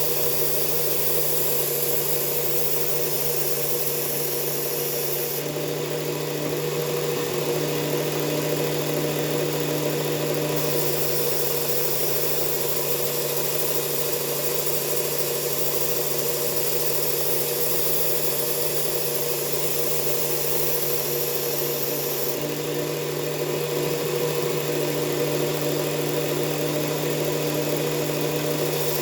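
Electric belt sharpener's motor and abrasive belt running steadily at constant speed. Twice, for about five seconds each (about five seconds in and again near the end), the sound changes as a knife's steel edge is ground along the belt in sharpening passes.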